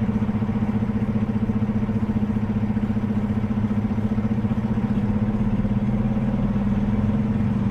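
A motor vehicle's engine running steadily with a low, even hum, as heard on the road.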